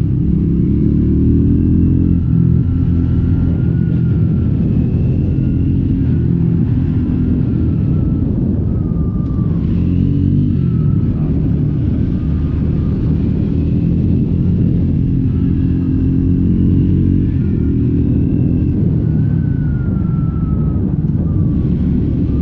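Triumph Scrambler 400X's single-cylinder engine running through its stock exhaust while riding, its revs rising and falling with the throttle.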